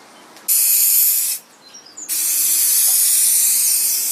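Lacquer being sprayed onto a wooden drawer in two bursts of hiss: a short one about half a second in, then a longer one of about two seconds.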